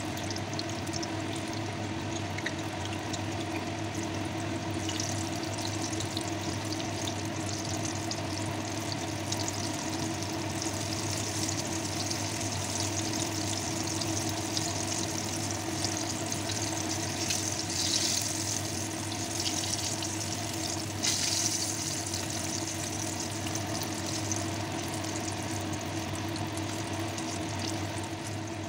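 Breadcrumb-coated eggplant slices deep-frying in hot oil: a steady bubbling sizzle over a low hum, swelling into louder crackling twice, at about 17–18 seconds and again at about 21 seconds.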